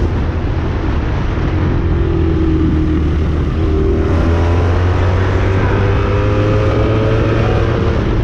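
1984 Honda Magna V65's V4 engine running hard through a Kerker 4-into-1 exhaust, with wind noise; its pitch slowly rises and falls with the throttle.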